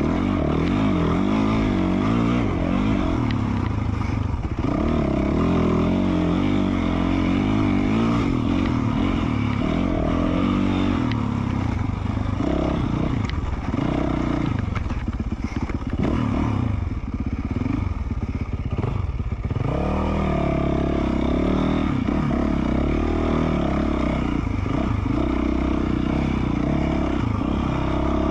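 2020 Yamaha YZ450F's single-cylinder four-stroke engine running through an FMF Q4 slip-on exhaust, its revs rising and falling with the throttle. It drops to lower revs for a few seconds past the middle, then picks up again.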